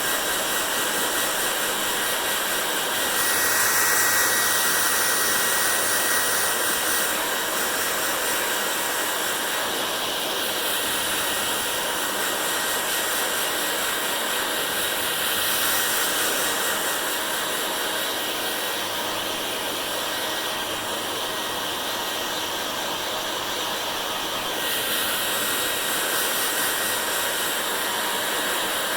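Hair dryer running continuously, a steady rush of blown air whose tone brightens and dulls slightly every few seconds.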